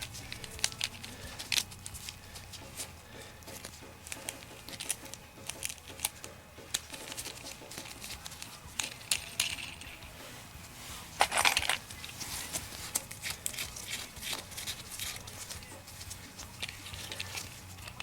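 Scattered light clicks and taps of small hardware being handled by hand, with one louder short rustling noise about eleven seconds in.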